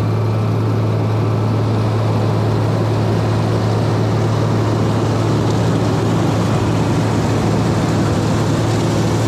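Tractor running steadily with a mounted two-row New Idea corn picker at work: a strong, even engine hum under a dense mechanical noise.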